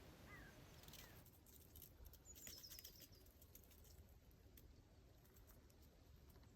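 Very faint rustling and crackling in reeds with a few short bird chirps; a run of high, falling chirps comes about two seconds in.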